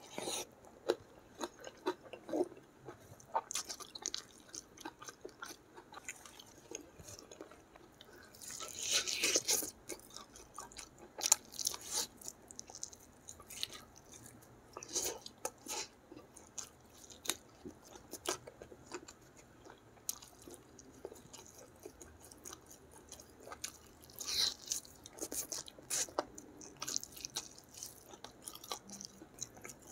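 Close-up eating sounds of a person chewing handfuls of rice with chili sambal and pieces of curried chicken with his mouth, with many short wet clicks and smacks. A few louder, longer bursts of mouth noise come about nine and twenty-four seconds in.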